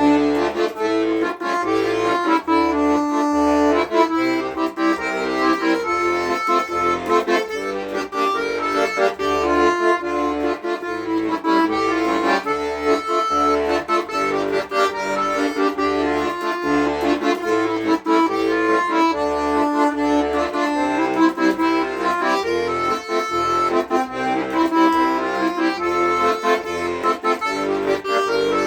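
Instrumental music in which an accordion plays a melody over a steady, pulsing bass line, with no singing.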